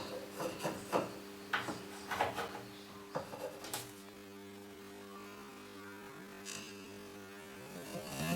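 A steady electrical hum with a run of short scraping taps and rubs in the first half, then one more faint scrape.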